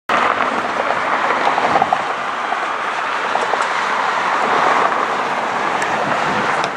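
Jet airliner engines, a loud, steady rushing noise that holds throughout without clear rise or fall.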